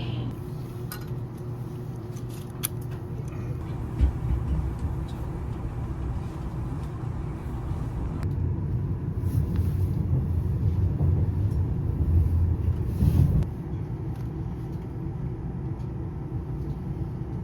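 Passenger train running, heard from inside the carriage as a steady low rumble, with a sharp thump about four seconds in and the rumble swelling louder for a few seconds past the middle.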